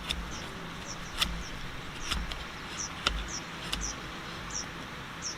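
Outdoor background: a steady hiss with a string of short, high, falling chirps repeating irregularly, a few sharp taps, and low rumbles coming and going.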